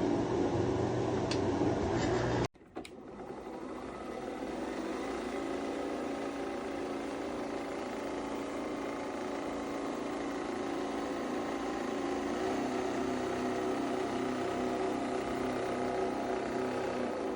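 Nespresso Vertuo Next coffee machine running a brew cycle: a steady mechanical whirring hum from its capsule-spinning motor and pump. The sound breaks off abruptly about two and a half seconds in, then comes straight back and runs on evenly.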